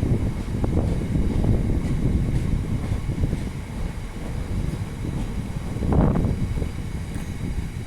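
DB Class 66 diesel locomotive hauling freight wagons, with the low rumble of engine and wheels. Wind buffets the microphone, and the rumble swells about six seconds in.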